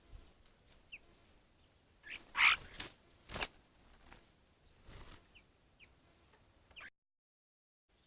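Small songbirds giving short, downward-sliding chirps, with a louder, harsh call and a sharp knock about halfway through. The sound cuts out for about a second near the end.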